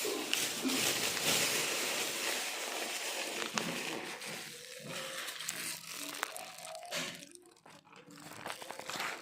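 Rustling, crinkling noise, densest in the first few seconds and thinning out after that, with a few sharp ticks.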